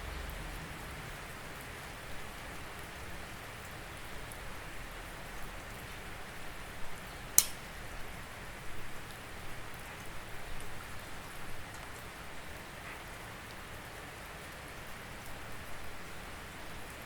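Steady rain falling, an even hiss with scattered louder drips striking a surface, one sharp drip about seven seconds in.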